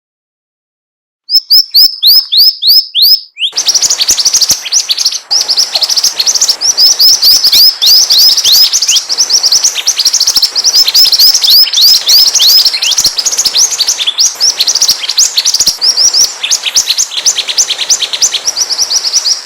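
Mantenan (pied fantail) singing: rapid runs of short, high chirps, each sweeping downward, starting after about a second of silence and then coming thick and fast without a break.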